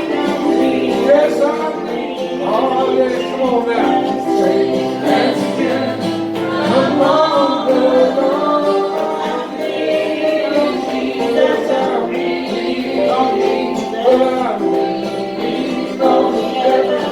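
Gospel song sung by several voices, women's and men's, with instrumental accompaniment and long held notes.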